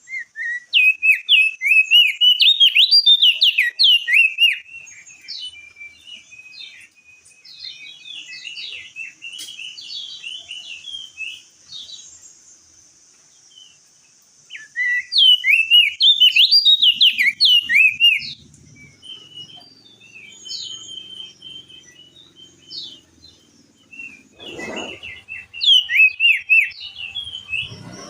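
Crested darkeye (opior jambul) singing in three loud bouts of rapid, high warbling notes, with softer scattered calls between. A brief dull thump comes near the end.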